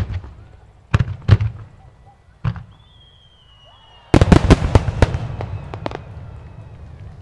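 Aerial firework shells bursting: a few single bangs spaced about a second apart and a thin, slightly falling whistle, then about four seconds in a rapid volley of many bangs that fades into a rumble.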